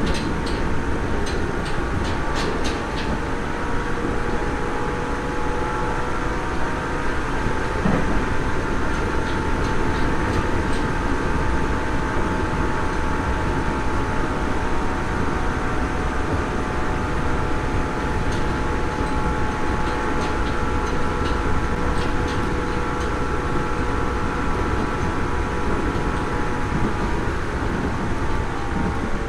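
Nagoya Municipal Subway 3000 series armature-chopper train running at speed: a steady wheel-and-rail rumble with a few faint steady tones over it. Bursts of clicks come in the first few seconds and again past the middle.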